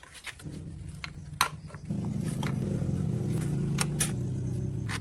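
An engine running steadily at low speed. It comes in about half a second in and gets louder at about two seconds, with scattered sharp clicks and knocks over it.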